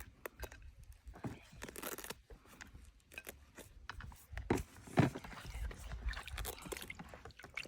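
Irregular crunching, scraping and clicking of things being handled at close range, with two louder knocks about four and a half and five seconds in.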